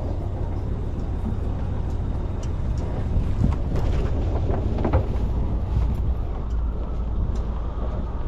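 Sailing yacht's inboard engine running steadily, a low rumble under a noisy haze, with a few short louder moments around the middle.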